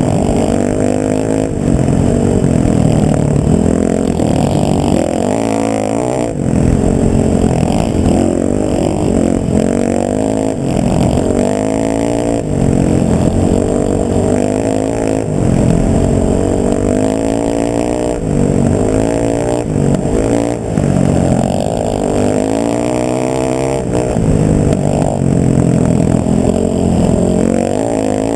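Motor vehicle engine running under load, its pitch climbing over several seconds, then dropping, again and again, like a vehicle accelerating and shifting up through the gears.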